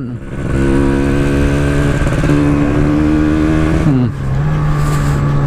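Motorcycle's Kawasaki Ninja two-stroke engine running at a steady pitch while riding. Its pitch dips briefly about four seconds in, then holds steady again.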